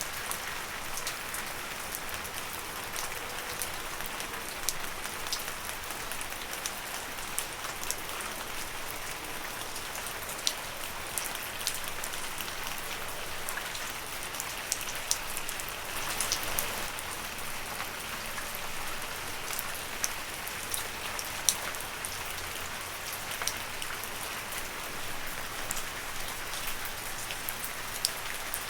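Steady gentle rain falling on leaves, an even hiss with frequent separate drop ticks.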